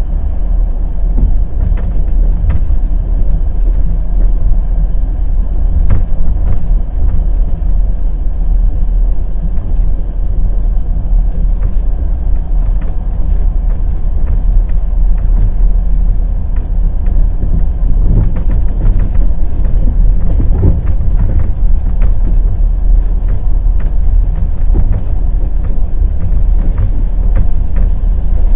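Wheels of a moving passenger train clicking over rail joints above a steady, loud, low rumble of the running train.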